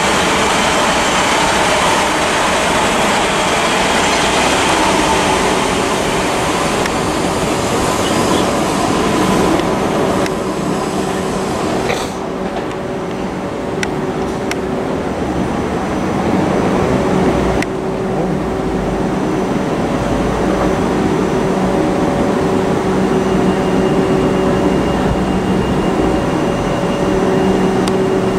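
Electric multiple-unit trains on the line: a long train running past with a steady rush of wheels on rails, which changes abruptly about twelve seconds in. After that comes a steadier hum with a low rumble as another electric train approaches.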